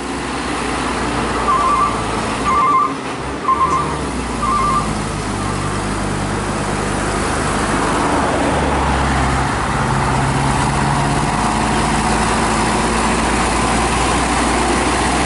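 A heavy truck's diesel engine running steadily under load as it passes slowly. In the first few seconds there are four short groups of quick high beeps, like a horn tooting.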